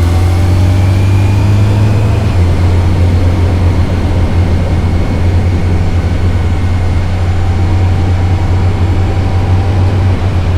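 Yamaha FJR1300's inline-four engine pulling under way, its pitch rising and then levelling off about two seconds in, over a heavy steady low rush of wind on the microphone.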